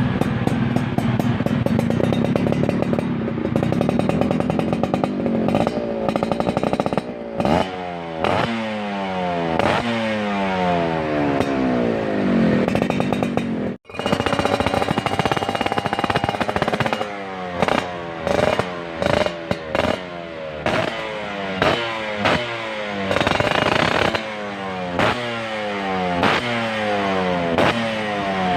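Yamaha F1ZR's two-stroke single-cylinder engine running through a WRS aftermarket exhaust, held at high revs at first and then blipped over and over, each rev climbing and falling back to idle. A brief cut just before halfway breaks the sound.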